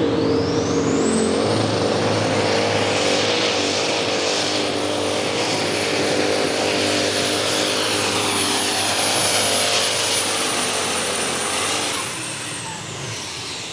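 Turbocharged diesel super stock pulling tractor running hard. Its high turbo whine climbs over about a second and a half, holds steady, and falls away near the end as the engine drops off.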